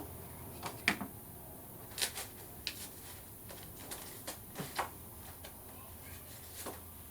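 Paper and craft materials being handled on a tabletop: a few scattered light taps and rustles over a quiet room background.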